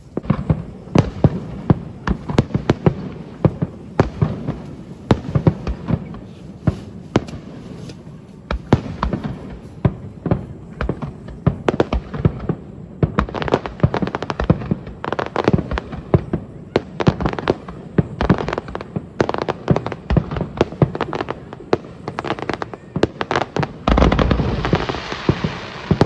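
Aerial fireworks going off in quick succession: a dense run of sharp crackling pops and bangs, with a louder spell of deep booms near the end.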